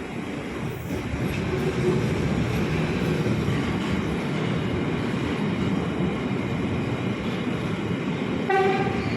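A train passing on the line, its steady rail rumble swelling about a second in, with one short horn toot near the end.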